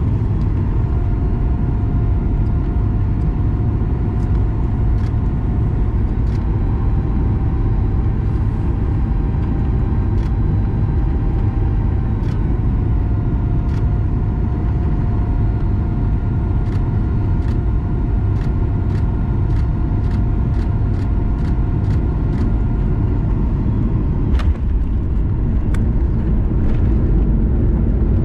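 Cabin sound of a Boeing 737 MAX 9 with CFM LEAP-1B engines on approach: a steady, loud rumble of engines and airflow with a droning engine tone that shifts pitch a couple of times as thrust is adjusted. In the second half comes a run of evenly spaced clicks, then a brief knock; after it the engine tone fades and the rumble grows a little louder.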